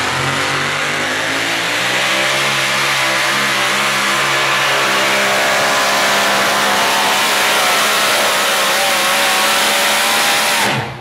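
Super modified pulling truck's engine at full throttle under load, its pitch climbing over the first two to three seconds and then holding high and loud with a slight waver. Near the end it cuts off abruptly as the run ends.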